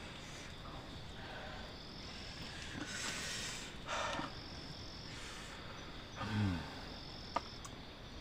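A person breathing out hard twice and then giving a short, falling groan, reacting to the burn of very spicy chilli. Under it runs a steady chirring of forest insects, with a small click near the end.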